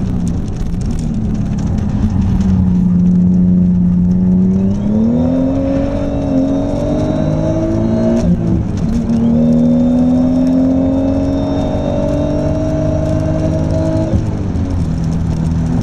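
Audi S4's twin-turbo V6 heard from inside the cabin under acceleration on track. The engine note climbs through a gear and drops sharply at an upshift about eight seconds in. It climbs again, then falls as the throttle is lifted near the end.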